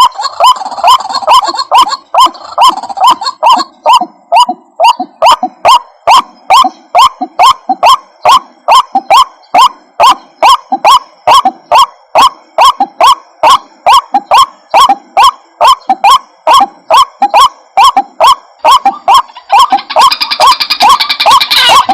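White-breasted waterhen calling: a loud, monotonous call note repeated about twice a second, as used in a recorded lure to draw the birds in. Near the end a denser, higher chattering joins in.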